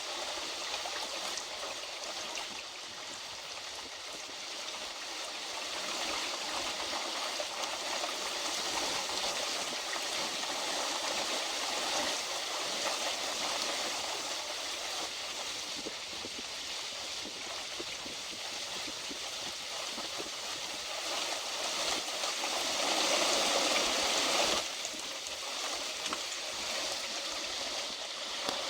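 Heavy rain pouring down in a steady hiss during a thunderstorm. It swells louder for a couple of seconds about three-quarters of the way through, then drops back abruptly.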